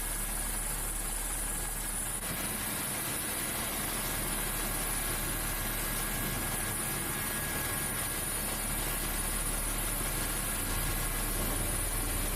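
Coast Guard aircraft in flight: the steady drone of its engines, even and unchanging throughout.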